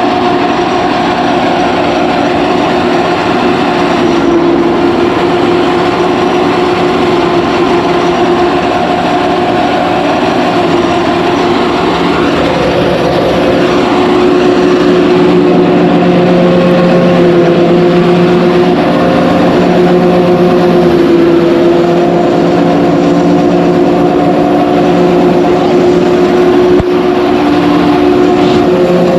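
Engine-driven rice threshing machine running steadily with a loud hum, its pitch stepping up and down a few times.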